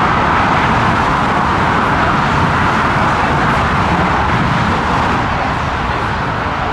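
Jet engines of an Airbus A340-300, its four CFM56 turbofans, running loud and steady as a dense, even rush of noise with a low rumble beneath.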